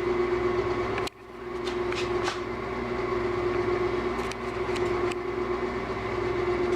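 Wood lathe motor running with a steady, constant hum, briefly dropping out about a second in.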